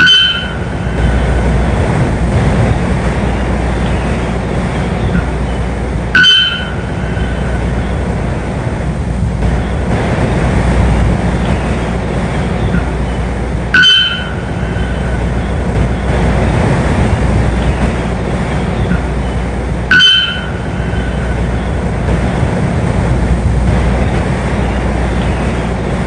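A bird's short two-toned call, heard four times about six to eight seconds apart, over a steady rumbling noise.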